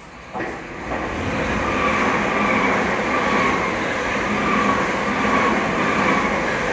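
Gatwick Express Class 387 electric multiple unit running through the station at speed without stopping. The loud, steady rush and rumble of wheels on rail starts abruptly about half a second in as the front of the train arrives, with a faint wavering whine over it.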